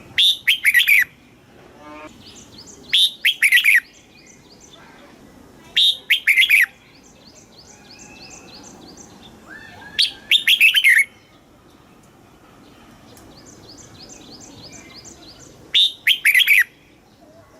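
Red-whiskered bulbul singing: five short, loud phrases of a few quick notes each, spaced about three to five seconds apart. Between the phrases there are fainter trains of short, high notes.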